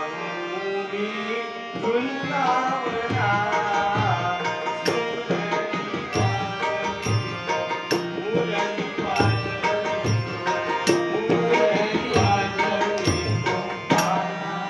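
Devotional gaulan being sung, with a voice carrying the melody over steady sustained accompaniment and a hand drum playing a regular pattern of deep bass strokes with sharp higher strokes. The singing rises in the first few seconds and again near the end.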